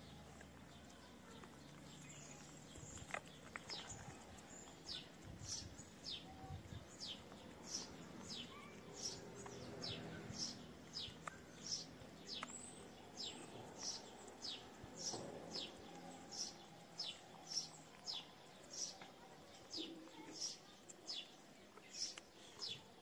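A small bird calling over and over: short, high chirps that each drop quickly in pitch, about three every two seconds.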